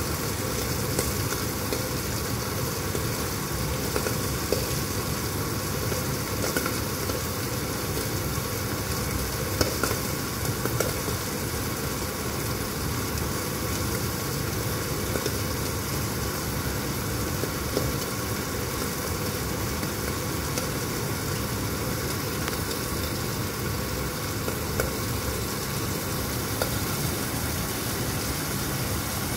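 Chicken breasts frying in a covered pan: a steady sizzle with scattered small crackles.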